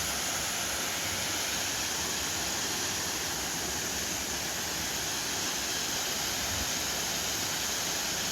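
A small waterfall rushing, a steady, even noise of falling water.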